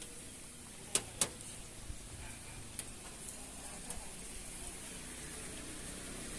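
Rain falling, a steady hiss, with two sharp clicks about a second in and a few fainter ticks after.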